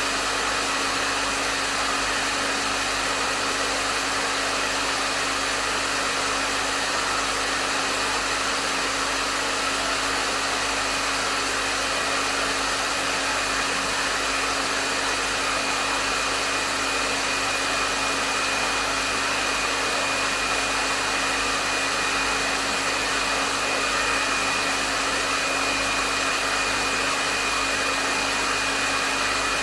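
Hair dryer running steadily at a medium setting: an even rush of blowing air with a constant motor whine.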